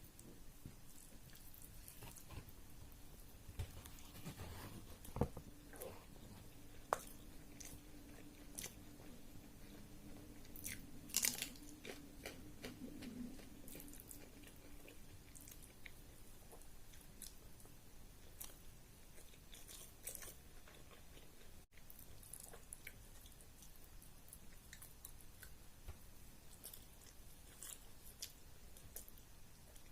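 Faint, close-miked eating sounds of a person chewing a meal of rice and curries: soft wet mouth clicks and chews, with a louder flurry about eleven seconds in. A faint steady hum sits underneath through the first half.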